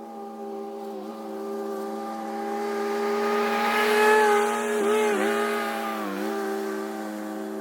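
Lawn mower engine running steadily at working speed, louder around the middle. Its pitch dips briefly a few times as it takes load.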